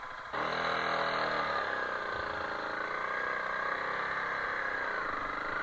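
Honda CRF300L Rally's single-cylinder engine picking up sharply under throttle a moment in, then running on with its pitch rising and falling.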